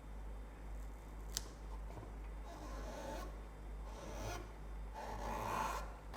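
Rubbing or scraping strokes on a hard surface: three strokes, each a little louder, after a single sharp click about a second and a half in.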